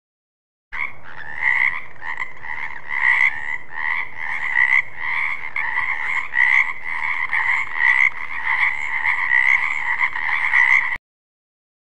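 Frogs croaking in a steady run of repeated calls, about two a second, starting about a second in and cutting off abruptly near the end.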